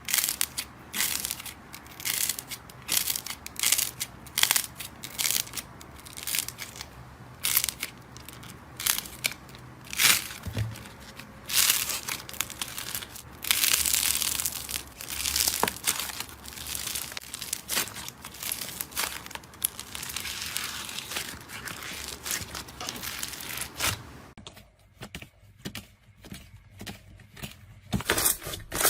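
Crunchy material being crushed by hand: irregular crunching and crackling squeezes, with a longer continuous crumbling stretch around the middle and a quieter spell near the end.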